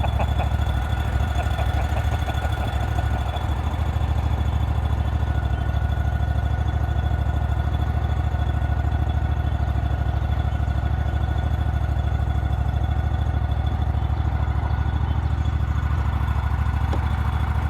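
A vehicle engine running steadily with a low, even rumble and a faint constant whine above it.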